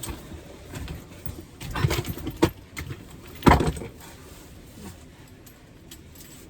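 A few separate knocks and clinks of objects being handled and put away, the loudest about three and a half seconds in.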